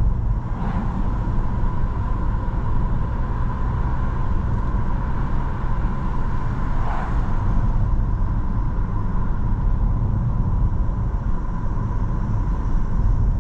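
Steady road and engine rumble inside a moving car's cabin, with a faint steady whine running through it.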